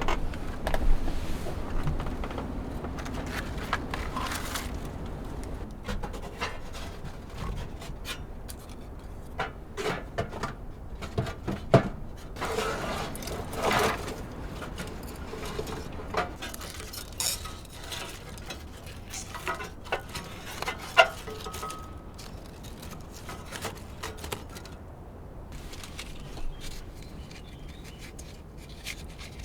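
Irregular knocks, scrapes and clinks of objects being handled, busiest in the middle, over a steady low rumble.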